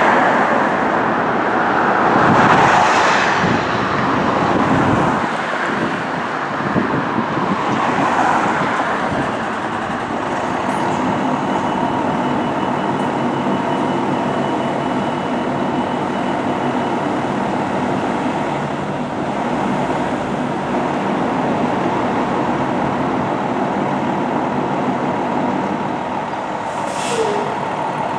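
Fire engine's engine running steadily with road and traffic noise, louder in swells early on, and a brief hiss near the end.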